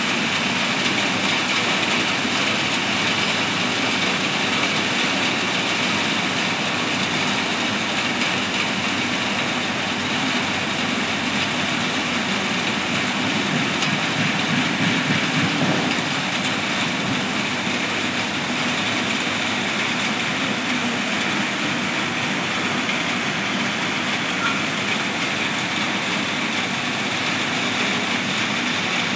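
Heavy rain pouring down steadily on foliage and the ground, a dense even hiss that swells slightly about halfway through.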